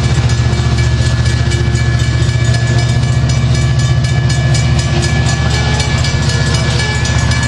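Train at a station: a loud, steady low drone with a fast, even pulse, like a diesel engine running.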